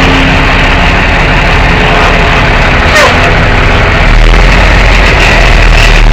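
Tow truck running: a loud, steady engine rumble. A brief sharp click comes about three seconds in, and the rumble grows a little louder about a second later.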